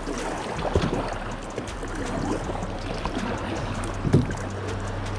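Kayak moving on fast, rushing river water, with a steady wash of flowing water and small splashes. Two low knocks, one about a second in and one near the end, as the paddle or hull strikes.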